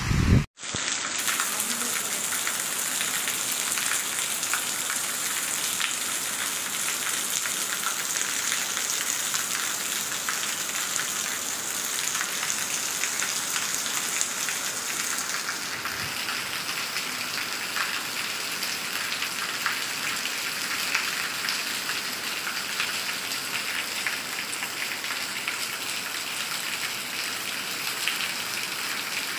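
Heavy rain pouring steadily: a dense, even hiss of rain hitting the ground and standing water, cutting out briefly about half a second in.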